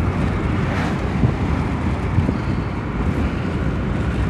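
Car driving along with steady road noise and low wind rumble on the phone's microphone.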